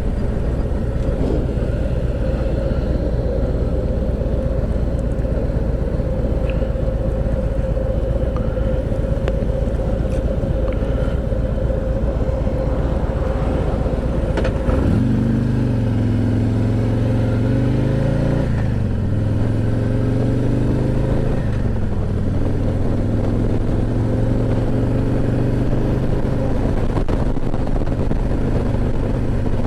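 Harley-Davidson V-twin motorcycle engine running under way, with heavy wind rumble on the helmet microphone. About halfway through, the engine note climbs, falls back as a gear is shifted, and climbs again as the bike accelerates through the gears.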